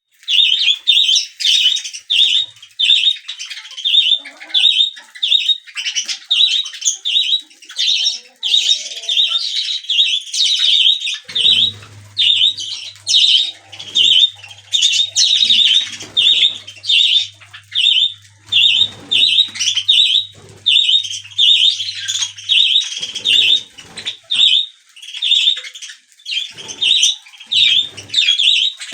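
Baby budgerigars calling: short high chirping calls repeated at an even pace of about two a second.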